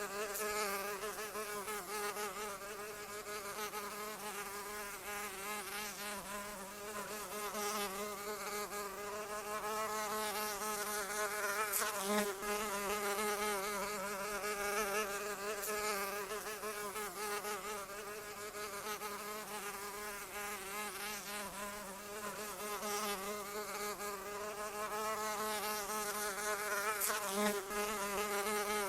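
A fly buzzing continuously in flight, a steady drone whose pitch wavers slightly up and down.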